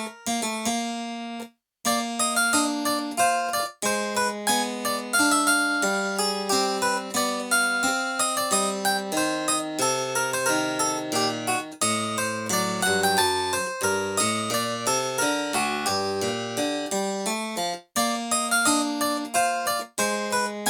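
Casio CDP-S360 digital piano playing a harpsichord preset: a busy stream of bright plucked notes over a moving bass line. The music breaks off for a moment about 1.5 s in, again near 4 s and near 18 s, then resumes.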